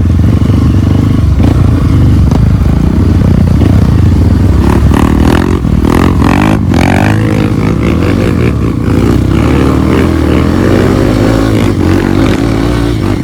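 Off-road motorcycle engine running under way, its pitch rising and falling with the throttle about halfway through.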